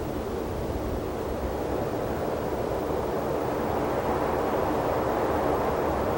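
Wind blowing through the open desert: a steady rush that swells slightly toward the end.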